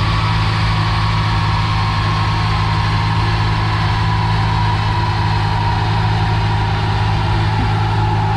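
Toyota Supra's rebuilt 2JZ-GTE straight-six idling steadily, with no revving.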